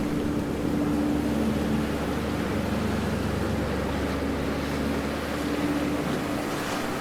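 Ocean waves washing steadily, with a low steady hum underneath that fades in and out.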